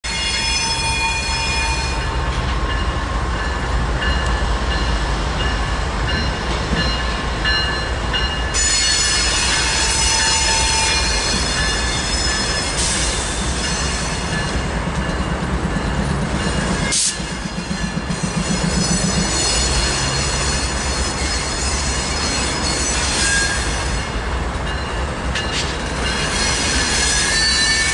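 Amtrak P42DC diesel-electric locomotives moving through a rail yard, their wheels squealing in several high, drawn-out tones over a steady low engine rumble.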